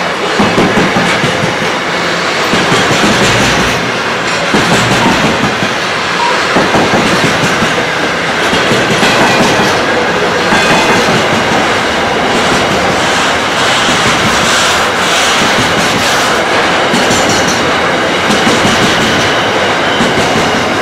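Intermodal freight train's container wagons rolling past close by: a steady rumble of steel wheels on rail with a rhythmic clickety-clack over the rail joints. A brief faint wheel squeal comes now and then.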